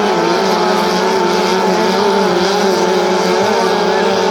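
Outboard motors of racing tunnel boats running at high revs: a steady, loud engine drone whose pitch wavers slightly.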